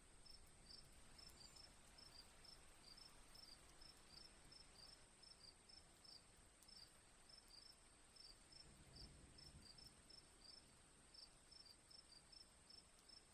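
Faint crickets chirping in a steady, even rhythm, about three short chirps a second, often in pairs, over a continuous high-pitched whine.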